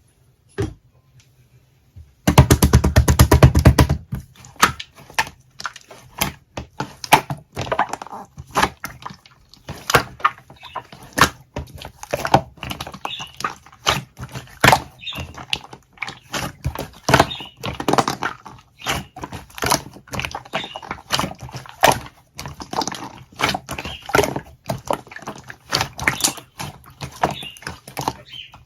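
Yellow colouring being mixed in by hand: a rapid, dense run of clicks about two seconds in, then irregular clicks and crackles that keep going.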